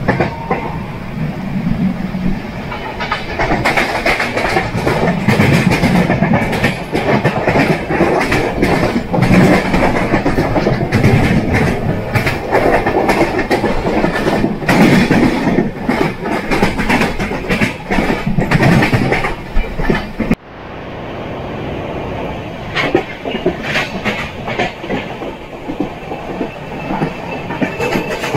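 Express train coaches running along the track, heard from an open door: steady running noise with wheels clattering over the rails. About twenty seconds in the sound breaks off suddenly and picks up again with less hiss.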